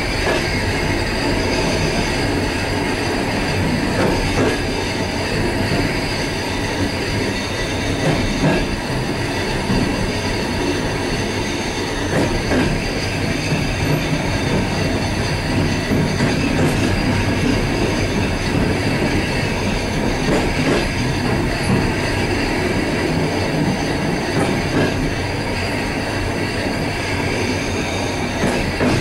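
Suburban passenger train carriage running, heard from inside its vestibule: a steady rumble of wheels on the rails with a knock now and then.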